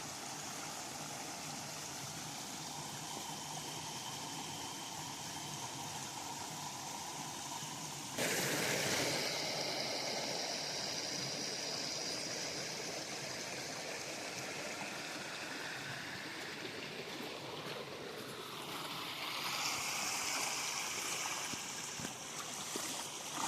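River water flowing over rocks: a steady rushing, which steps up suddenly about eight seconds in and changes again near the end.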